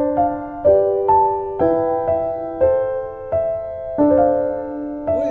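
Background piano music: slow, gentle notes and chords struck about twice a second, each ringing and fading.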